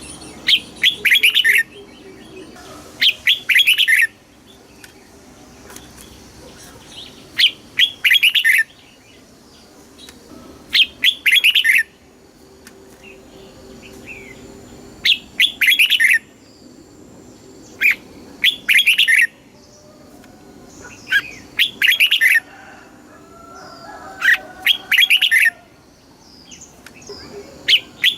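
Red-whiskered bulbul singing: a short, loud, bubbling whistled phrase about every three seconds, nine phrases in all, with fainter chirps from other birds in the gaps. This is the kind of song recording played to caged bulbuls to teach them song or rouse them.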